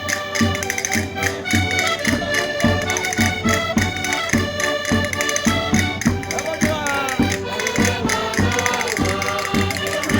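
Several concertinas playing a traditional Minho folk tune in chords over a steady beat, with voices singing over them from about six seconds in.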